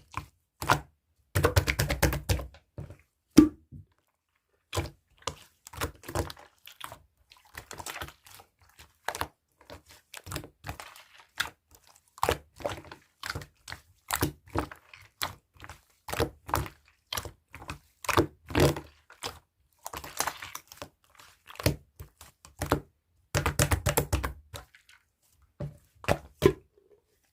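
Hands pressing, poking and folding blue slime, making a stream of irregular sticky pops, clicks and squishes, with two longer runs of them, about two seconds in and near the end.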